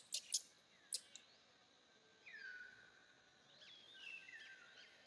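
Faint birdsong: a whistled note that slides down and holds, about two seconds in, then several shorter overlapping chirps and whistles. Four sharp clicks come in the first second.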